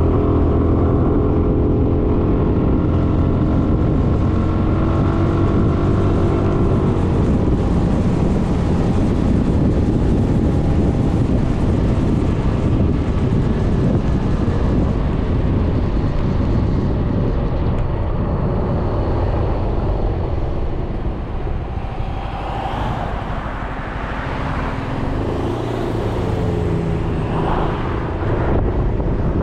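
Suzuki Burgman 400 scooter's single-cylinder engine running under way, mixed with wind and road noise. The engine eases off and quietens about two-thirds of the way through, then picks up again near the end.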